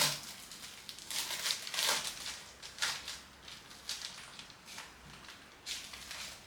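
Soft rustling and crinkling handling noises: a string of short, irregular scrapes and crinkles, the loudest right at the start.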